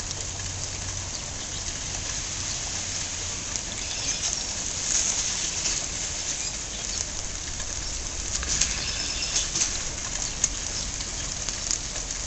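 Steady rain falling: a hiss with patter of drops, heavier for a stretch about five seconds in and again from about eight to ten seconds in.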